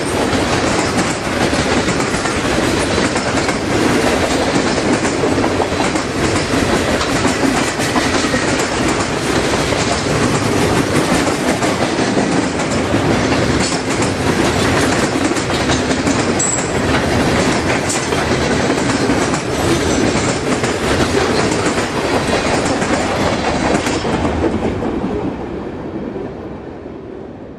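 Freight train cars rolling past at close range, wheels clacking over the rail joints in a steady loud clatter that dies away near the end as the train passes.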